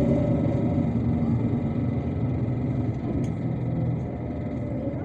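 MAZ-257 bus's diesel engine and drivetrain running while driving, heard inside the passenger cabin as a steady rumble that eases off slowly.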